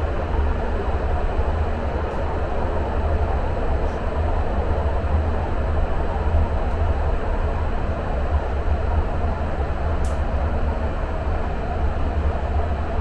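Muni Metro light-rail car running through the subway tunnel between stations, heard from inside the car: a steady low rumble of wheels on rails and running gear, with a faint click about ten seconds in.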